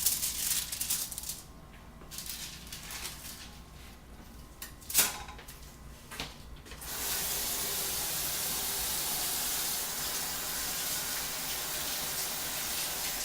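A few light clatters and a sharp knock, then about seven seconds in a kitchen faucet is turned on and runs steadily into the sink.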